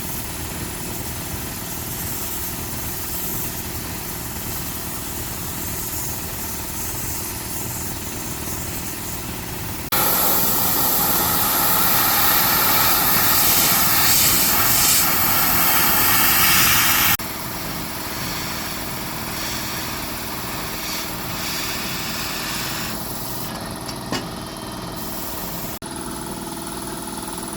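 A small machine running steadily, with a louder, harsher noise for about seven seconds from about ten seconds in.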